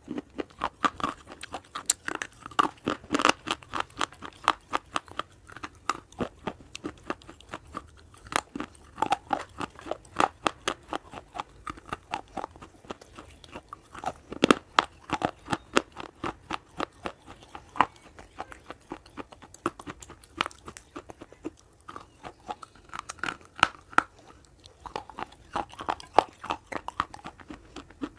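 Close-miked biting and chewing of slate pencils: a dense run of crisp crunches, several a second, with louder bites every few seconds.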